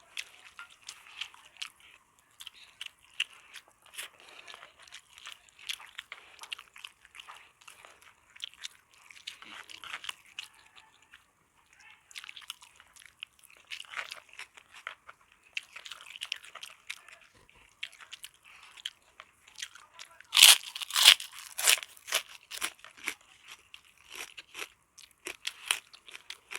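Close-miked eating sounds: a person chewing and crunching food, with a run of much louder bites and crunches about twenty seconds in.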